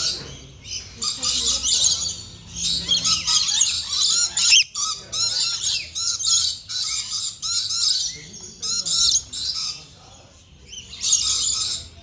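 Many birds chirping and squawking at once, their overlapping calls coming in bursts of about a second, with a short lull shortly before the end.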